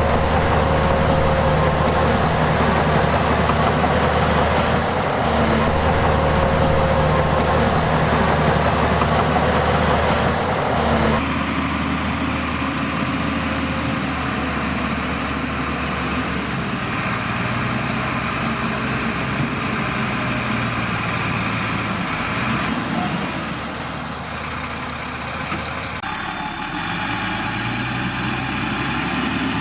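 Diesel engines of heavy earthmoving machines, bulldozers and dump trucks, running steadily at work with a deep drone. The engine note changes abruptly about a third of the way in and again near the end.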